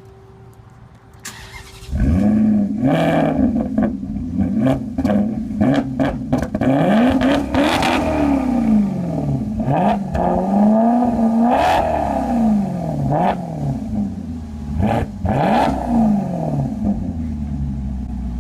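Maserati GranTurismo Sport V8 starting up about two seconds in, then revved repeatedly, pitch rising and falling with each blip. It settles to a steady idle near the end.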